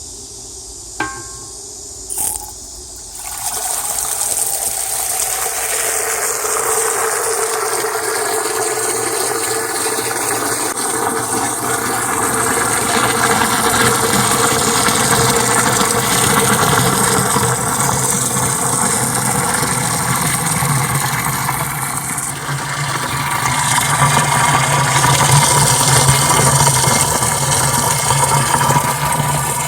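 Stream water pouring and splashing into an earthenware crock as it is filled, a steady loud rushing that starts about three seconds in after two brief knocks.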